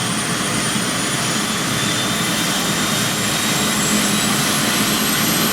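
Helicopter turbine engine running loud and steady, its high whine slowly rising in pitch.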